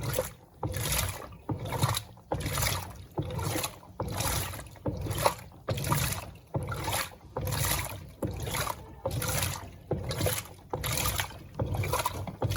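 Electrolux Turbo Compacta 7 kg washing machine agitating a load, churning the water back and forth in an even rhythm of nearly two swishes a second. The agitation is running well, which the owner calls very good.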